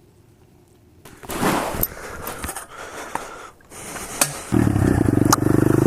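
Scraping and clicking handling noises, then from about four and a half seconds in a small pit bike engine running steadily. The bike is an SSR 125cc single-cylinder four-stroke.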